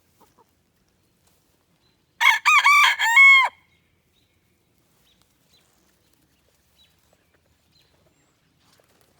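Sebright bantam rooster crowing once, about two seconds in: a short crow of about four linked notes lasting a little over a second, the last note the loudest.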